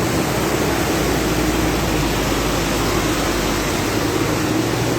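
Steady rushing noise of floodwater, with a low engine drone underneath.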